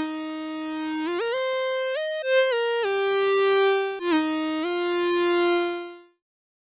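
Surge XT software synthesizer playing a single-voice line of about seven notes, each note sliding in pitch into the next, rising and then falling, before fading out about six seconds in.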